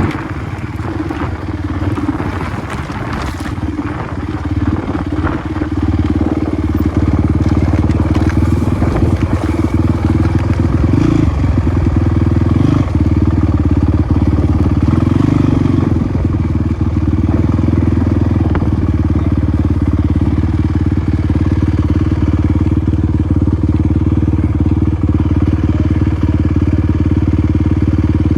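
Off-road motorcycle engine running at a steady speed, louder from about seven seconds in, with scattered clattering and crunching in the first few seconds.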